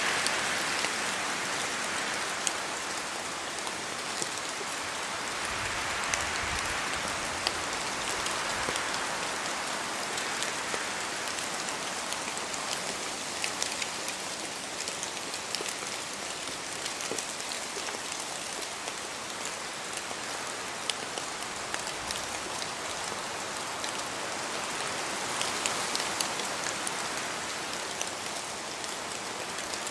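Steady rain falling on a forest, with many distinct drops pattering throughout and the rush swelling and easing a few times, as with wind gusts through the trees.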